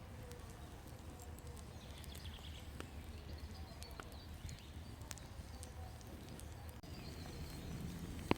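Quiet outdoor ambience: a campfire crackling faintly with scattered small pops over a low steady rumble, with faint birdsong.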